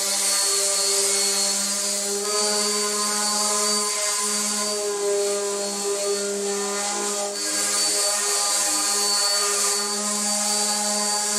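Random orbital sander running steadily, its motor humming with a high hiss as it sands plywood drawer faces.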